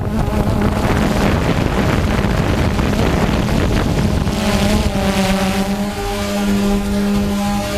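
DJI Phantom quadcopter's motors and propellers humming steadily, with wind rushing over the microphone. About halfway through, the rushing eases and the hum stands out more clearly.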